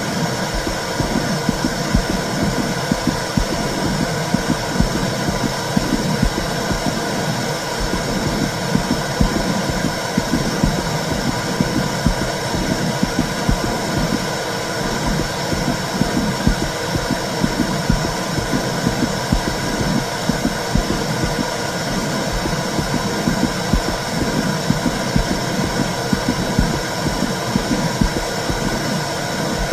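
Womb sound for soothing a baby: a steady, low whooshing rumble that pulses unevenly.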